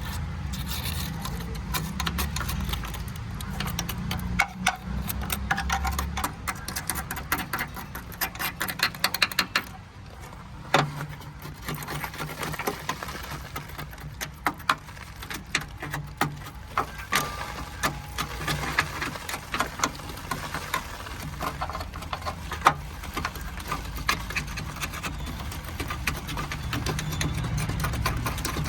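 Restoration workshop sounds: irregular metallic clicks, knocks and rattles of hand tools and parts being worked, over a steady low hum.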